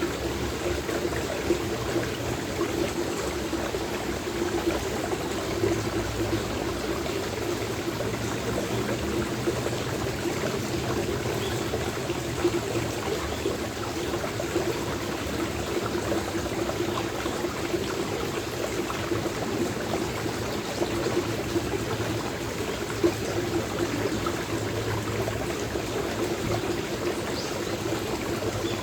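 Stream water flowing and trickling steadily, with a couple of brief sharp knocks.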